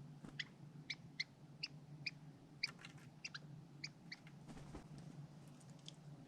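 A small tit gives short, high call notes, about a dozen unevenly spaced, mostly in the first four seconds, over a faint steady low hum.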